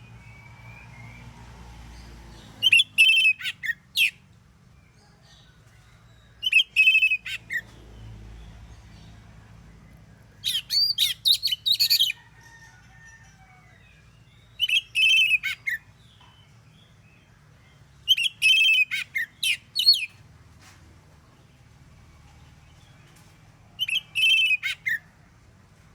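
Oriental magpie-robin (kacer) singing: short, loud whistled phrases, six in all, each a second or two long and spaced a few seconds apart.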